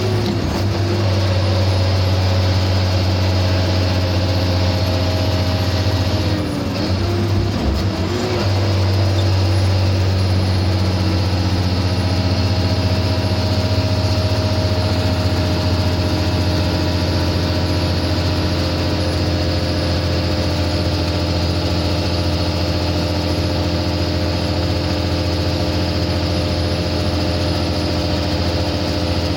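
Sinotruk HOWO truck's diesel engine running steadily. About six to eight seconds in, its pitch drops briefly and comes back, as the revs fall and recover during a gear change.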